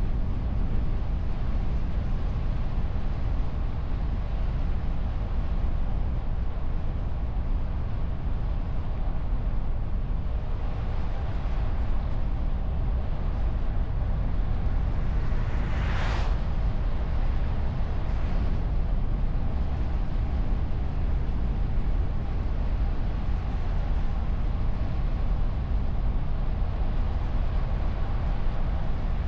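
Steady low rumble of wind and road noise from a moving car, picked up by a camera mounted on its bonnet. There is a brief rushing whoosh a little past the middle and a fainter one about two seconds later.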